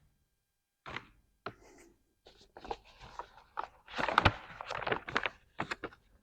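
A wiring harness being handled and sorted: irregular rustles, scrapes and light knocks of connectors and loose wiring, loudest a little past four seconds.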